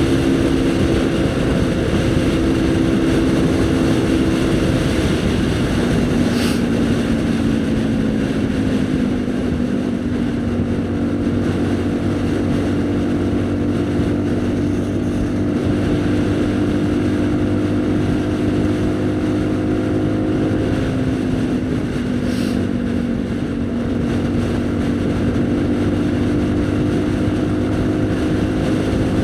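Haojue NK150's single-cylinder engine running steadily under way, its pitch stepping down twice, each time with a brief click.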